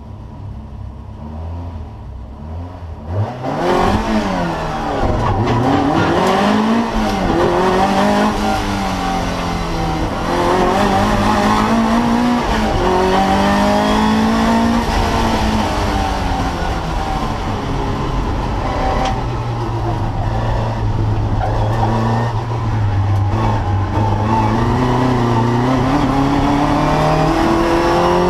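Opel Manta's 2000cc 16-valve four-cylinder engine, tuned to 250 bhp, running low for about three seconds and then revving hard from about 3.5 s in on a hillclimb run. Its pitch climbs and drops again and again as it goes up and down through the gears, and it stays loud to the end.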